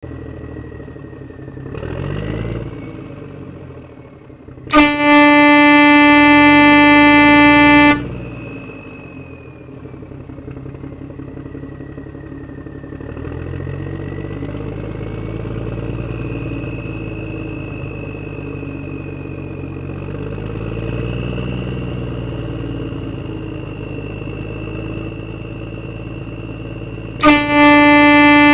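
A horn blares on one steady note for about three seconds. It sounds again near the end, over a running engine-like sound whose pitch rises and falls with a thin whine above it.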